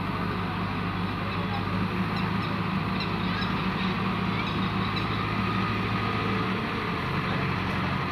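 A heavy vehicle's engine running steadily, an even low drone. A few faint high chirps come through in the middle.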